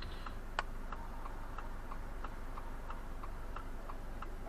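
A car's indicator ticking steadily inside the cabin, about three clicks a second, with one sharper click about half a second in.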